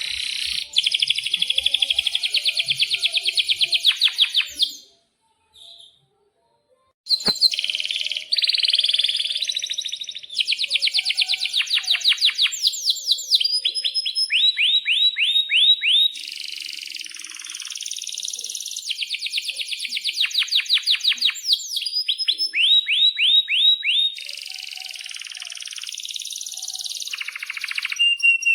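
Domestic canary singing a long, loud song of fast rolling trills and sharp repeated chirps. It breaks off about five seconds in and resumes a couple of seconds later.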